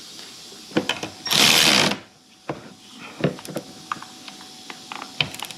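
A power tool runs in one short burst of about half a second, about a second in. Scattered light clicks and clinks of hand tools come before and after it, as a fastener is being snugged down.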